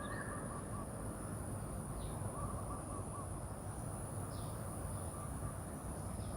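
Steady outdoor background noise with faint bird calls: a short run of notes near the start and another about two and a half seconds in.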